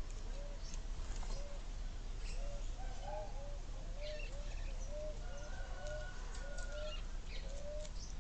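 Wild birds calling: a run of short, arched low notes repeated irregularly, at times overlapping, with scattered higher chirps.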